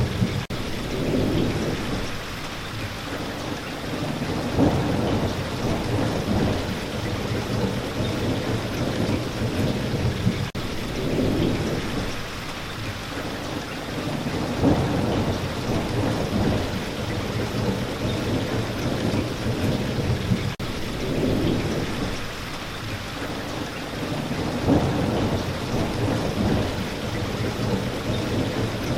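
Steady rain with low rolling thunder that swells and fades every few seconds.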